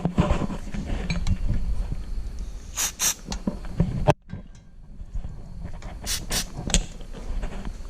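Starter cranking a carbureted 305 small-block Chevy V8 that does not catch, with a few sharp pops along the way. The cranking breaks off about four seconds in and starts again. The owner suspects the ignition timing is off.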